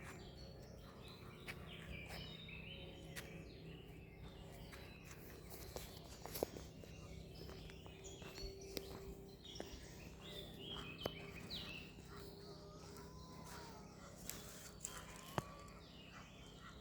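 Many small birds chirping and calling over a steady outdoor background, with a few short sliding calls and some sharp clicks, the loudest about six seconds in and near the end.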